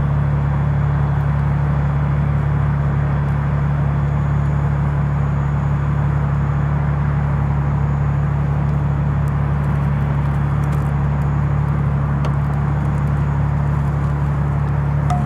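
Car engine running at idle, a steady low drone, while the car creeps slowly backward in reverse.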